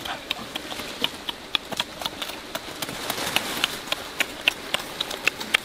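Mouth sounds of people eating cooked eggs: irregular wet clicks and lip smacks while chewing.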